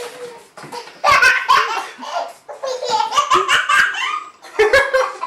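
A baby laughing hard in repeated high-pitched bursts.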